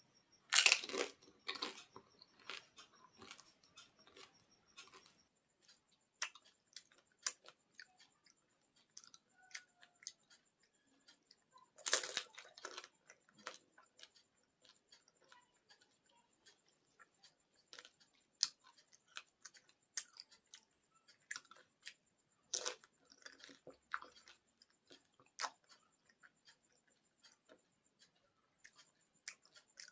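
Panipuri (gupchup) being eaten close to the microphone: crisp hollow puri shells crunch loudly when bitten, three times (near the start, about twelve seconds in and about twenty-two seconds in), with softer wet chewing between bites.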